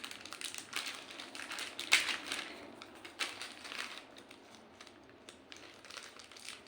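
Packaging being handled and opened by hand: irregular crinkling and crackling strokes, the loudest about two seconds in.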